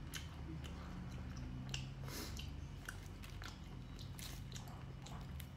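A person chewing food close to the microphone, with scattered wet mouth clicks and smacks. A low steady hum sits underneath.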